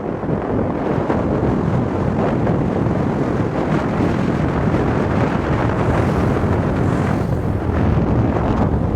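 Steady wind rush buffeting the microphone, over the low rumble of a moving car.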